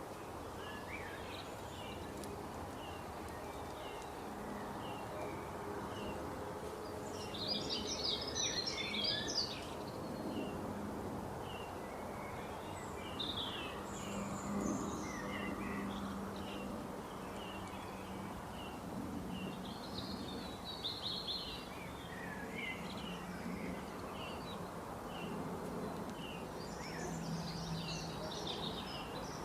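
Wild birds chirping and singing over steady background noise: a short chirp repeats about twice a second, with louder, busier bursts of song every several seconds, the loudest about eight seconds in.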